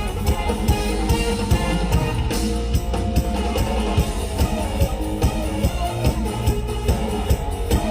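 Mor lam band music through a large sound system: plucked strings over a drum kit keeping a steady beat.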